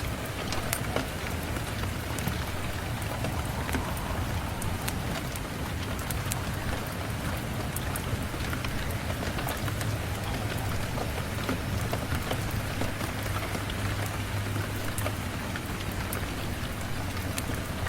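Steady rain falling, with scattered sharp ticks and a low rumble underneath.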